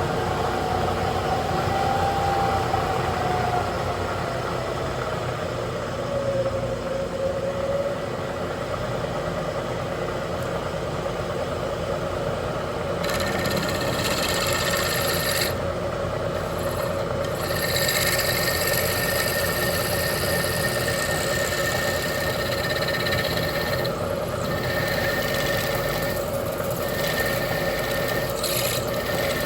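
A machine spindle running a 3/8 inch twist drill with cutting lube, boring a roll-pin hole through a metal control rod. The motor's tone slides down over the first several seconds. From about 13 s in, a higher hissing cutting noise with a thin squeal joins it, breaking off briefly a few times as the feed eases.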